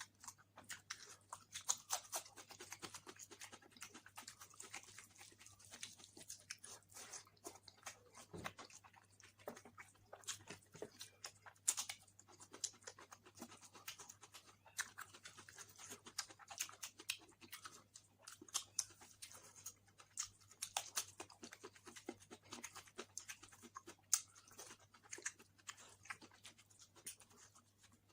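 Close-miked chewing and wet mouth smacking of someone eating pulao rice and mutton curry, an irregular run of quick clicks and smacks, with a faint steady low hum under it.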